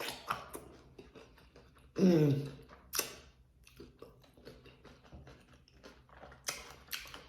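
Crunching and chewing of a hard taco shell, with sharp crackling bites scattered through, the loudest near the end. A short voiced sound about two seconds in.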